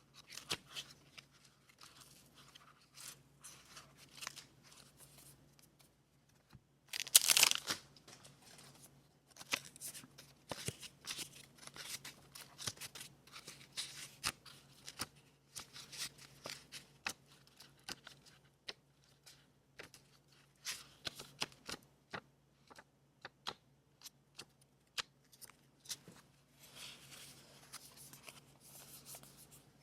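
Paper being handled for scrapbooking: rustling, light crinkling and tearing, with many short sharp clicks and a louder stretch of tearing about seven seconds in.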